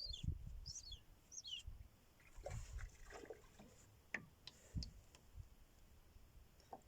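A seagull gives three short, high, squeaky calls in the first second and a half. Water laps faintly with scattered light knocks.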